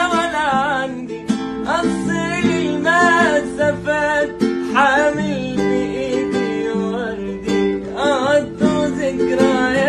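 Arabic song: a voice sings a wavering, ornamented melody without clear words, over plucked acoustic guitar.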